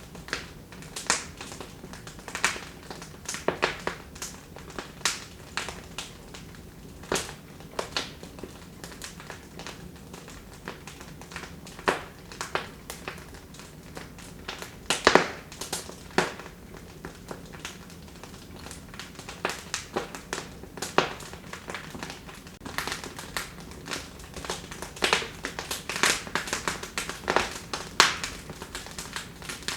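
Wood fire crackling in a fireplace: irregular sharp pops and snaps over a soft steady hiss, getting busier in the last third.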